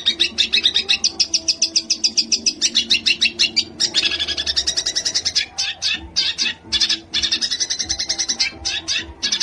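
Songbird singing a fast 'tembakan' burst, a long string of rapidly repeated high, sharp notes at about ten a second, with a couple of brief breaks in the second half. A faint low hum runs underneath.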